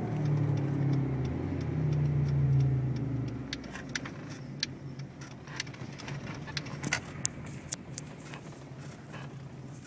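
2003 Honda Civic running, its low drone strong for about three seconds and then dropping away as the car slows. A quieter hum is left, with scattered sharp clicks and rattles.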